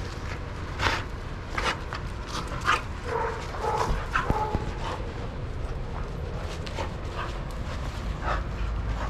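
Dogs playing, with a string of short barks and yips, most of them in the first half.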